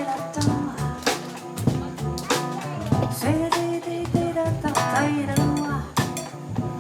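Live jazz band playing: piano, double bass and drum kit, with drum and cymbal strokes over held, sliding notes.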